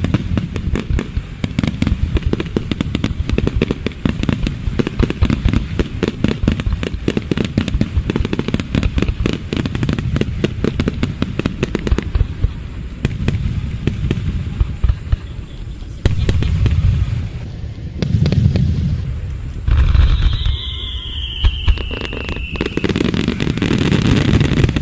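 Aerial fireworks shells bursting: a dense, rapid crackling of many small bursts through the first half, then separate deep booms. About twenty seconds in, a whistle slides down in pitch over a couple of seconds.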